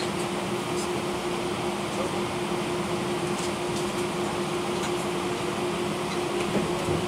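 Steady cabin noise inside a British Airways Airbus A319: engine and airflow noise at an even level, with a steady low hum.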